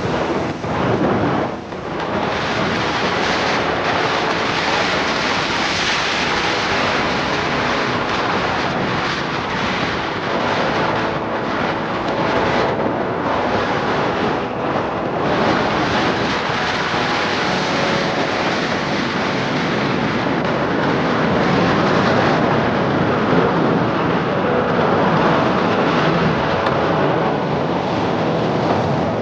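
Loud wind rushing over the microphone of a moving motorcycle, with the motorcycle's engine running underneath.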